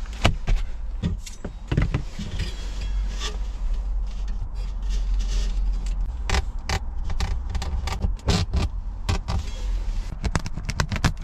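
Hand work on a mesh window screen, cutting a hole for a stove flue pipe: irregular sharp clicks, knocks and rustling, over a steady low rumble.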